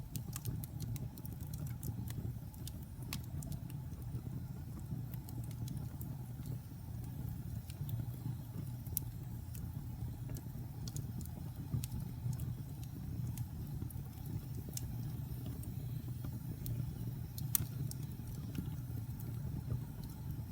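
Wood fire burning in a fireplace: a steady low rumble of flames with scattered crackles and pops from the burning wood, a few sharper pops standing out.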